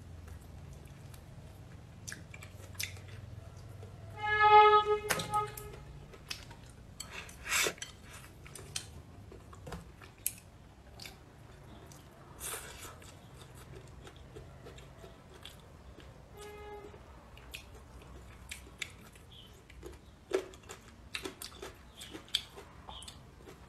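A person chewing food with wet mouth sounds, amid scattered clicks of chopsticks and eating. About four and a half seconds in comes a short steady pitched tone, the loudest sound, and a fainter one about two-thirds of the way through.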